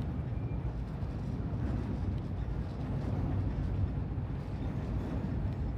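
Steady low rumble of city ambience, with no single sound standing out.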